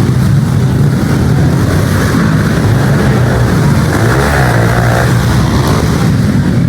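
Pit bike engines running loud and revving on the arenacross track, the pitch rising and falling as the riders work the throttle, with a dip and climb about four seconds in.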